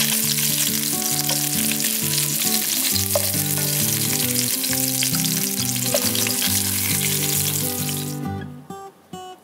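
Grey mullet pan-frying in hot oil: a steady sizzle with a few sharp crackles as the fish are turned with chopsticks. The sizzle cuts off suddenly about eight seconds in.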